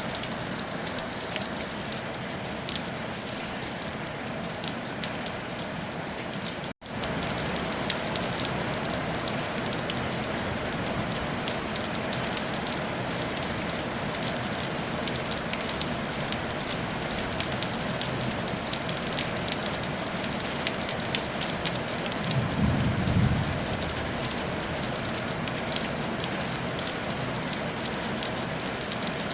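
Steady rain falling on a tile roof: an even hiss full of fine drop patters. The sound cuts out for an instant about seven seconds in, and a brief low rumble rises under the rain about two-thirds of the way through.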